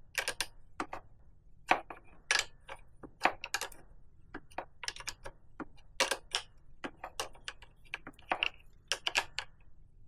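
Irregular metallic clicks and taps of a spanner working the nut on a dirt bike's rear brake pedal height-adjuster bolt, a few clicks a second with short pauses, as the pedal is lowered.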